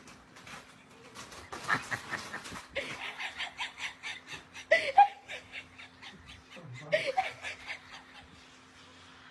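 A person laughing in quick breathy pulses, several bouts in a row, with a few short higher-pitched squeaks in the laughter.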